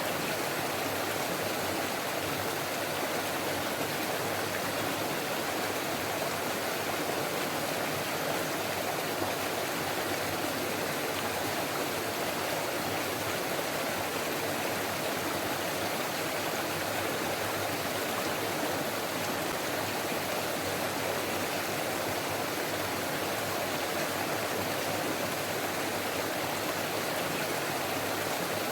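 Stream water flowing, a steady, even rush with no breaks.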